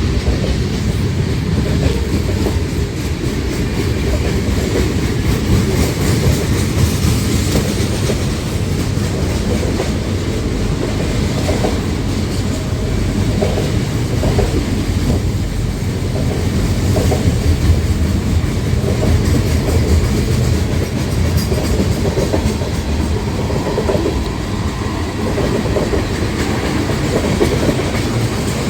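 Freight train rolling past, a steady rumble of its cars with wheels clicking over the rail joints.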